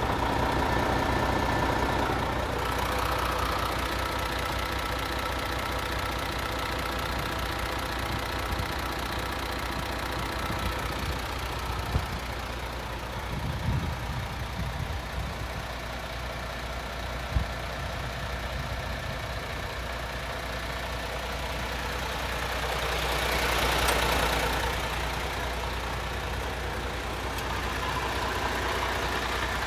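MAN TGX 26.460 tractor unit's 12.4-litre straight-six diesel engine idling steadily, with a couple of sharp clicks near the middle and a brief swell of hiss about four-fifths of the way through.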